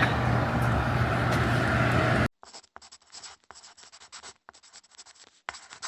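A steady noise with a low hum that cuts off abruptly about two seconds in. It is followed by a faint, irregular run of short scratching strokes, like a pen writing on paper.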